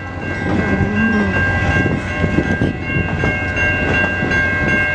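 Railroad crossing electronic bells, a Siemens low-pitch e-bell with a General Signals Type 3 bell, ringing steadily just after the crossing activates. Underneath them is the low rumble of an approaching freight train.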